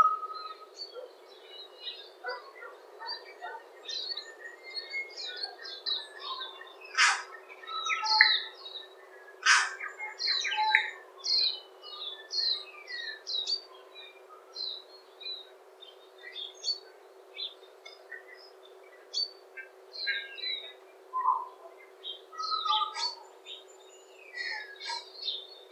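Several songbirds singing and calling together in short chirps and trills, with two louder sharp notes about seven and ten seconds in, over a faint steady hiss.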